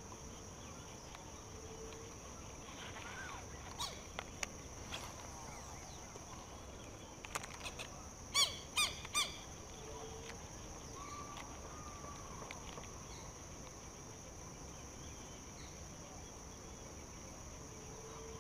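Faint outdoor ambience with a steady high-pitched hum; about eight seconds in a bird gives three quick calls in a row, with a few soft clicks a few seconds before.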